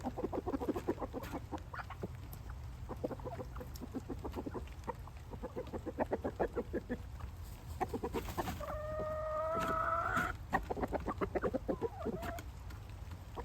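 Roosters clucking in runs of short, quick notes, with one rooster crowing about two-thirds of the way through: a single crow lasting about two seconds, its pitch rising slightly.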